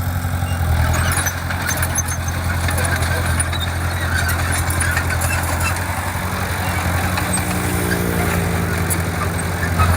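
Diesel engine of heavy construction machinery running steadily with a deep hum. A higher tone rises slightly in pitch over the last few seconds, and a few light clicks and rattles come through.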